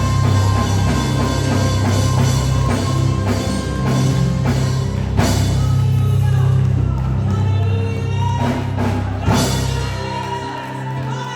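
Live worship band playing, drum kit and bass carrying a steady beat with some singing, and two cymbal crashes about five and nine seconds in. Near the end the bass and drums drop away.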